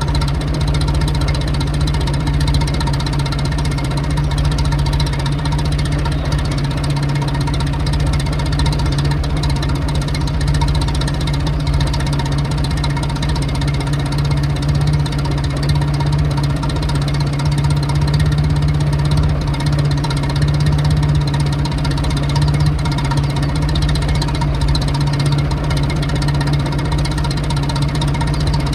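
1922 Morris Bullnose's 11.9 HP four-cylinder side-valve Hotchkiss engine ticking over steadily, heard at the exhaust end.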